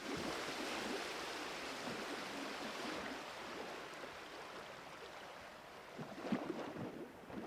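Faint rushing of water, like sea waves washing, slowly fading, with a few soft knocks about six seconds in.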